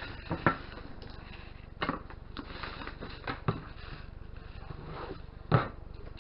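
Scattered short knocks and clacks over a low steady hum, the loudest about five and a half seconds in.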